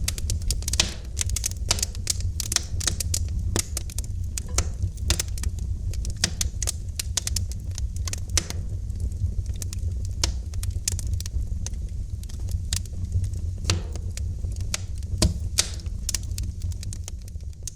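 Wood fire burning in a fireplace: irregular sharp crackles and pops of the burning wood over a steady low rumble of the flames.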